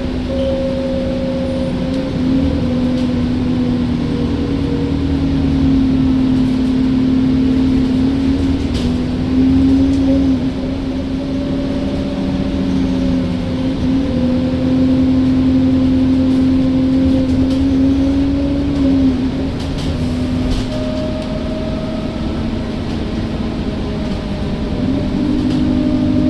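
Alexander Dennis Enviro bus running, a steady droning hum whose pitch shifts slightly up and down every few seconds.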